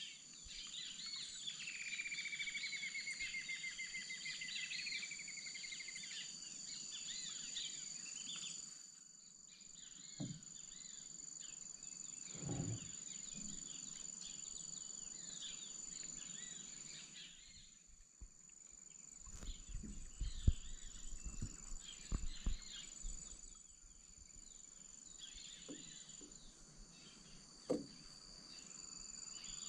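Amazon wetland ambience: a steady high-pitched drone of insects, with bird calls over it, including a fast trill of notes sliding downward in the first few seconds. A few low knocks and thumps come in the second half.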